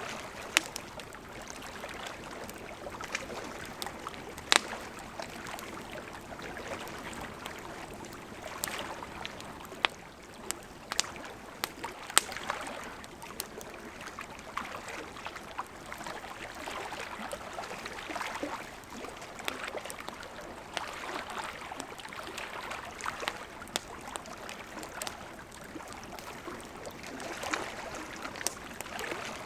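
Campfire crackling, with scattered sharp pops, over the steady rush of a gently flowing river.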